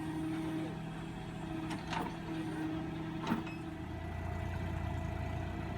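Tractor engines running steadily, with a couple of sharp clanks; a deeper engine rumble comes in about four seconds in.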